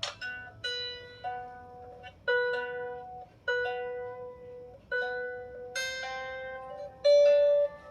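A 16-string lyre harp with its strings plucked one at a time: single notes about a second apart, each ringing out and fading, with the loudest note near the end.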